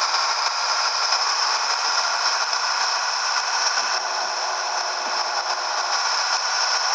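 Steady rattling and running noise of a Scania 113H truck on the move, with a bright high hiss over it.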